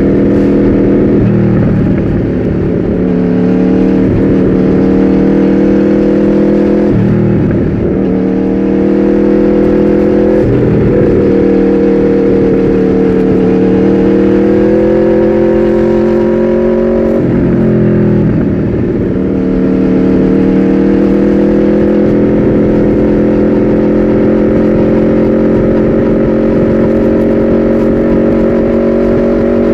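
Aprilia RSV4 V4 engine through an aftermarket Austin Racing GP2R exhaust, running under way at a fairly steady note that drifts slowly up and down. Several times the note briefly drops and picks back up.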